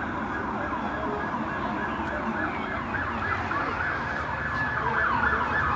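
Several police car sirens sounding together, a wail that turns into a fast yelp about halfway through and gets louder as the cars approach, over passing traffic.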